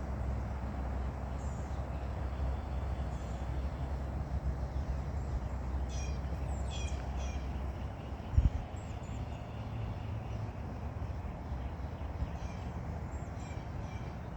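Wild birds calling in short repeated calls, a cluster about six to seven seconds in and more near the end, over a steady low rumble. A single dull thump about eight seconds in.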